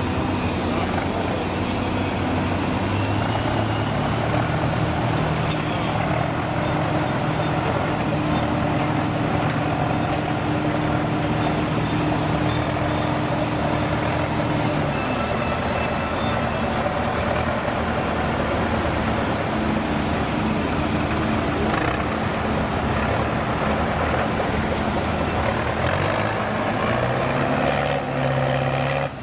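Engine of a heavy truck or construction machine running steadily. Its engine speed rises about 4 s in, drops back about 15 s in, and rises again near the end.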